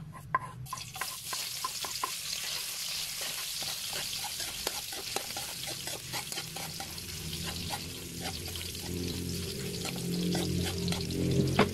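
Chopped ginger going into hot cooking oil in a wok and sizzling steadily as a spoon stirs it, with a few clicks of the spoon on the board and pan at the start before the sizzle sets in about a second in: the first stage of sautéing the aromatics. A low hum rises in the background during the second half.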